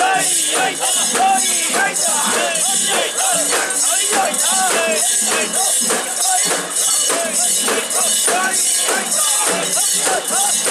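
Mikoshi (portable shrine) being carried: its metal rings jangle in a steady rhythm, about twice a second, under the overlapping voices of the bearers chanting.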